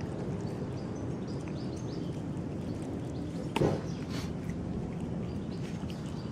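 Outdoor ambience: a steady low rumble with small birds chirping now and then, and one short, loud sound about three and a half seconds in.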